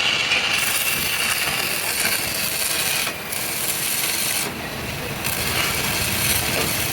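Metalworking tool scraping or grinding against metal in a continuous rasping noise, with short breaks about three seconds in and again around four and a half to five seconds in.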